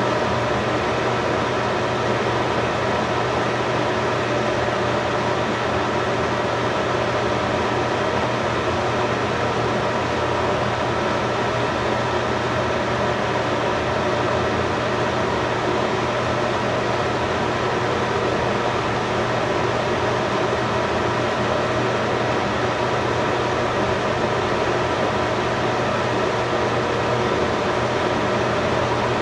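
Steady mechanical hum with a hiss, unchanging throughout.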